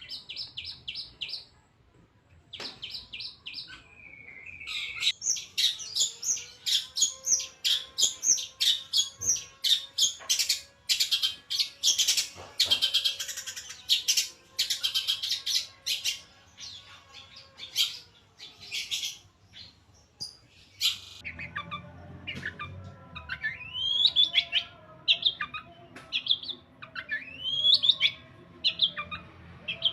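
Long-tailed shrike (cendet) singing: fast runs of chattering notes, then about halfway through a string of separate rising calls, typical of the cendet's mimicry of other animals.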